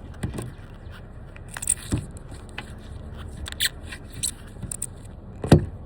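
Scattered clicks and scrapes with a couple of sharper knocks, about two seconds in and near the end: hands handling a small portable tyre inflator and its hose at a car tyre.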